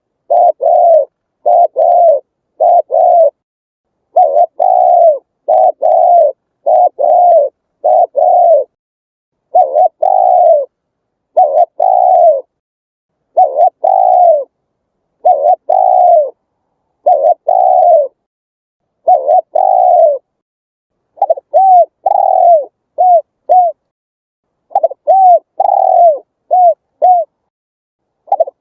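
Spotted dove cooing: a long series of low, arched coo notes, one after another under a second apart. From about two-thirds of the way through come shorter, quicker notes in little groups.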